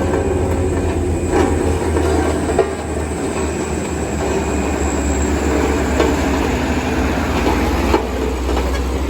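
Heavy diesel vehicle engine running under load with a steady low drone, and a few sharp clanks and knocks from the body over the rough road.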